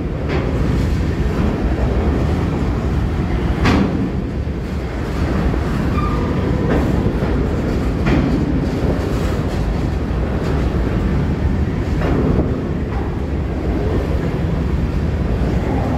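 Freight train's covered hopper cars rolling slowly past: a steady low rumble with a sharp clack about every four seconds.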